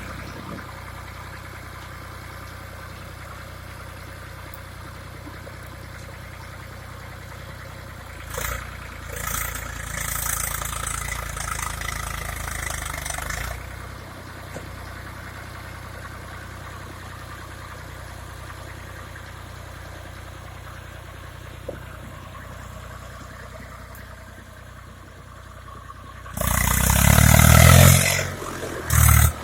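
Eicher tractor's diesel engine running steadily, rising to higher revs for several seconds about a third of the way in, then revving hard and loud near the end.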